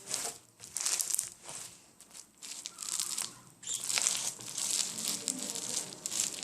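Homemade borax-and-glue slime packed with small balls being squeezed and worked by hand, crackling in uneven bursts about once a second.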